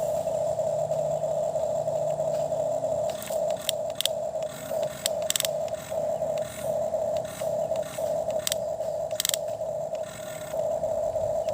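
Small electric motor of a toy excavator whining steadily. After about three seconds it cuts in and out, with sharp clicks and scraping as it digs.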